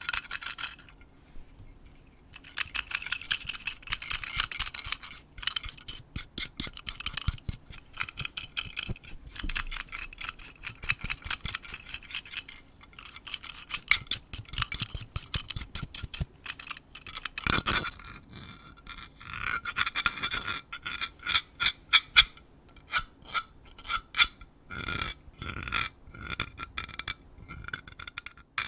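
Close-miked brushing and scratching, a rapid, irregular run of rasping strokes with short pauses, over a steady high chirring of crickets.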